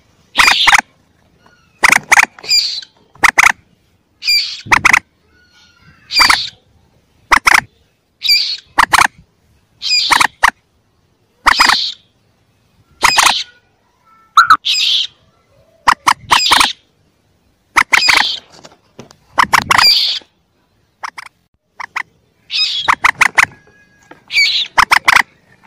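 Lure recording of young common moorhen calls: short, sharp calls repeating about every second and a half, some coming in quick runs of two or three near the end.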